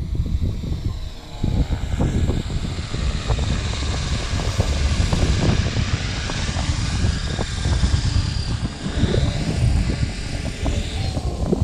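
Radio-controlled model aircraft hovering inverted, its motor and propeller whine rising and falling in pitch as it holds position. Strong wind buffets the microphone. The whine fades near the end.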